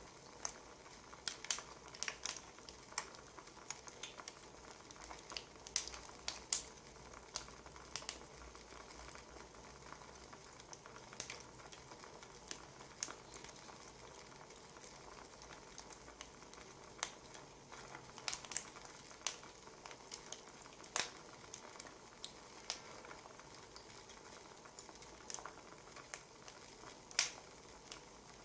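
Burning firewood crackling: irregular sharp pops and snaps over a soft steady hiss.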